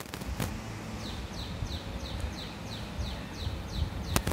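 A bird calling in the background: a quick series of short, falling chirps, about three a second, over a low rumble. Sharp clicks come near the start, and a louder one just before the end.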